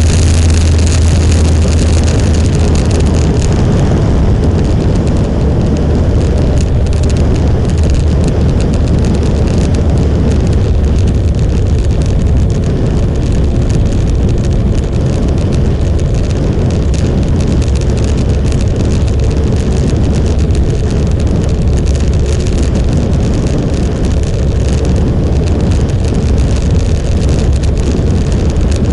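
Motorcycle running at a steady pace on the road: a loud, steady low engine drone with a rushing noise over it.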